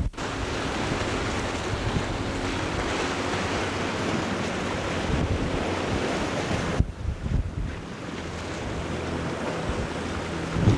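Wind buffeting the microphone over the steady rush of water and waves around a small sailboat under way. The noise dips briefly about seven seconds in.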